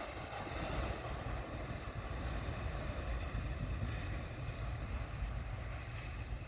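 Freight train rolling past with a steady low rumble, wind buffeting the microphone.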